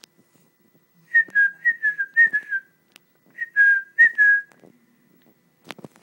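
A sleeping English bulldog puppy making high, whistling squeaks through its nose, in two quick runs of about three or four a second with a short pause between them, each squeak dipping slightly in pitch. There is a single soft knock near the end.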